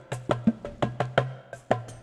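Percussion music: a quick rhythm of sharp wood-block-like knocks, about four or five a second, over a low held note.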